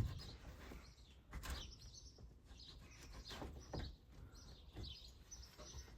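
Faint birds chirping now and then, with a few soft knocks.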